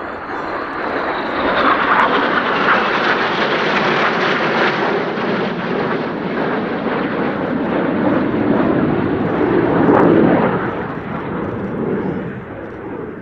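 Four BAE Hawk T1 jet trainers of the Red Arrows flying past in formation, their turbofan engines making a continuous jet noise. It swells twice, about two seconds in and again around ten seconds, then fades near the end.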